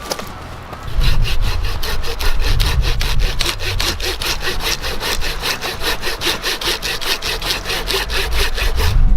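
Hand saw cutting through wood in fast, even strokes that start about a second in. The saw is likely the Samurai Kishi, a Japanese folding pruning saw, cutting firewood.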